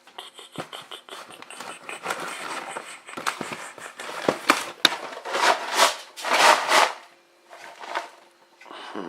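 Cereal packaging being rustled and crinkled, with scattered clicks and knocks. There are two longer rustles about five and six seconds in.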